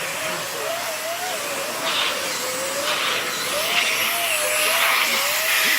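Dyson vacuum cleaner running with its nozzle on a dog's coat: a steady rush of air over a motor tone that wavers up and down.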